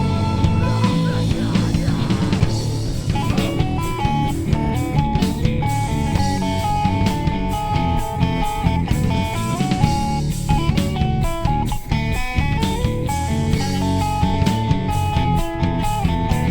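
Rock band playing live: guitars over a drum kit, with a lead guitar line stepping from note to note.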